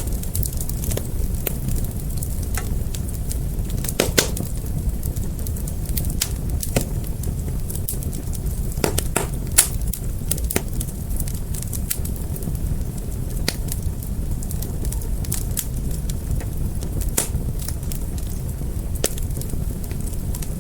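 Fire crackling: a steady low rumble of flames with scattered sharp pops, the loudest about four seconds in and near the middle.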